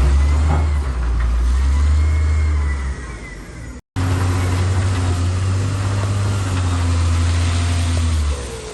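Heavy diesel engine of a Shantui bulldozer running with a steady deep drone. It eases off briefly about three seconds in, cuts out for a moment just before four seconds, then runs steadily again and eases near the end.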